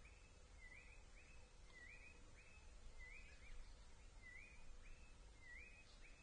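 Faint, evenly repeated bird call: a short rising chirp followed by a flat note, about once a second, over a low background rumble.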